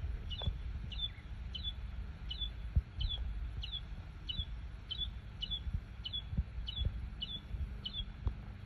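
A single bird repeating one short, high chirp, a little under twice a second, very regularly. A low rumble with occasional soft thumps sits underneath.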